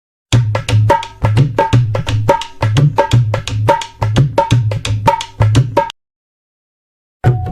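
Hand drum played in a quick, even rhythm, deep bass strokes alternating with ringing higher strokes. It cuts off suddenly about six seconds in and starts again just before the end.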